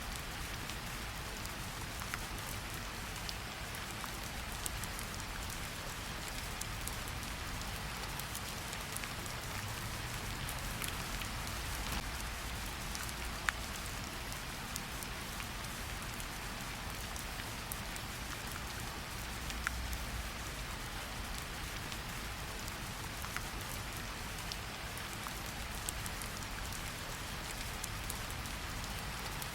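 Steady rain falling, an even hiss with scattered sharp drips and taps of drops landing.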